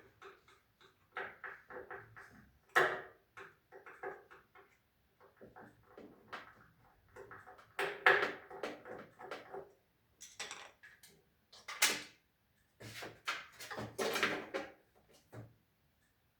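Irregular knocks and clatter of metal parts and tools being handled and set down, with a few louder clanks and some brief ringing after the strikes.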